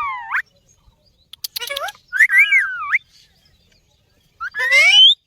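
Parrot calling in a series of short whistled calls that swoop up and down in pitch, with pauses between them; the last call rises.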